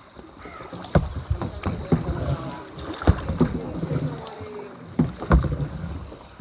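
Kayak paddling: a steady low rumble of water with a series of sharp knocks, typical of a paddle striking the water and bumping the kayak's plastic hull.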